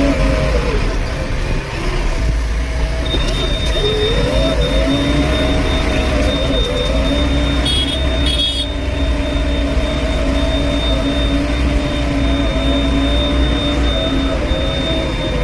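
JCB backhoe loader's diesel engine working, its pitch rising twice as it revs under load and then holding steady. A thin high whine runs from about three seconds in, and two short high beeps come about halfway through.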